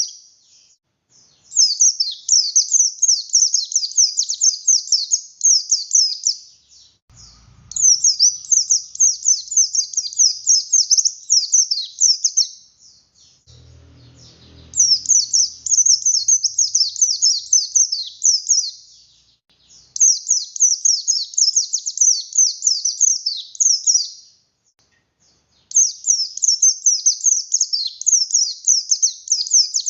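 Buxtoni-type white-eye (pleci) singing hard: a very high, rapid twittering song in five bouts of about four to five seconds each, separated by short pauses, with a faint low thud about 7 and 14 seconds in.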